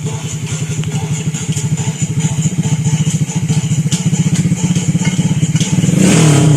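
Honda XRM 125 single-cylinder four-stroke engine, built up with a four-valve big-valve head, 72 mm cylinder and 32 mm carburettor, running with a rapid, even exhaust pulse. It revs up briefly near the end.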